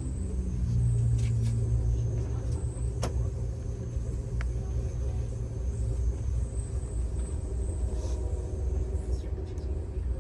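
Low, steady rumble of a vehicle running, with a low hum that swells about half a second in and eases off after about six seconds, and a few faint clicks.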